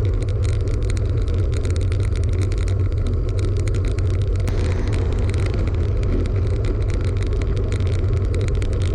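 Wind and road noise on a bike-mounted action camera's microphone while cycling: a loud, steady low rumble with scattered crackles.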